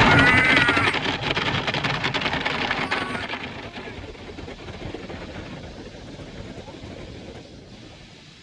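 Automatic car wash running, heard from inside the car: a dense wash of spraying water and machinery noise on the body, fading steadily as the equipment moves off. A brief high squeal sounds at the very start.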